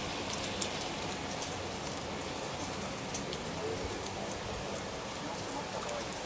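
Rainstorm: steady rain falling, with many small drop ticks on top of an even hiss.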